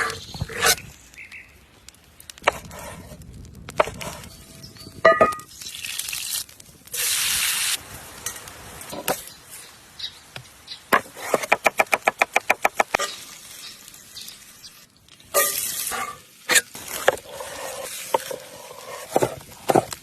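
Cooking sounds: food sizzling in short bursts, broken up by knocks and clicks, with a fast run of evenly spaced strokes midway through.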